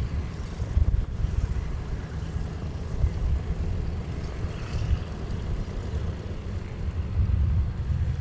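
Low, steady rumble of the Douglas C-47 Skytrain's twin radial engines running at a distance.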